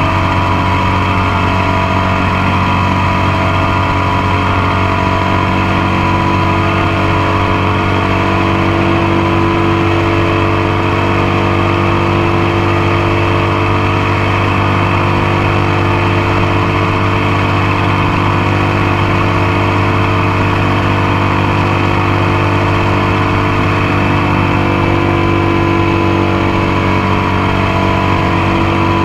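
Motorcycle engine running steadily under way, heard close up from the passenger foot peg. Its pitch shifts slightly about 25 seconds in.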